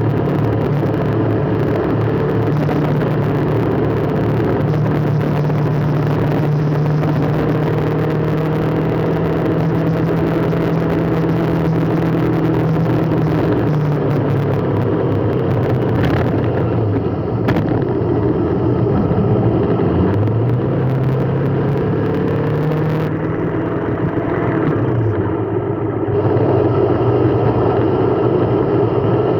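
Road vehicle engine running with road noise while driving. The engine note holds steady for a long stretch, falls away about halfway through, then climbs again as the vehicle speeds up.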